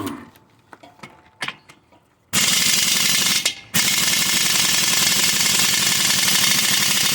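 Heavy impact wrench hammering on a big truck wheel's lug nuts: a short burst about two seconds in, a brief pause, then a long steady run. The nuts are not coming loose.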